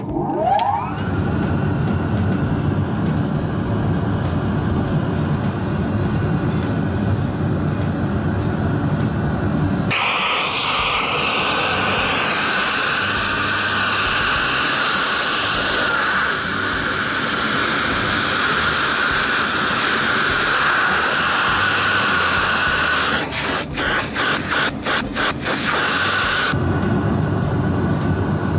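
Amano pulse-jet industrial dust collector's blower motor starting with a short rising whine and running with a steady rushing noise. About ten seconds in the sound shifts abruptly to a brighter hiss, and near the end it stutters rapidly for a few seconds before going back to the lower, heavier noise.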